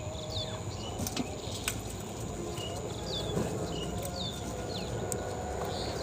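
A bird calling over and over, about once a second: a short falling chirp followed by a lower note, with a few sharp clicks in between.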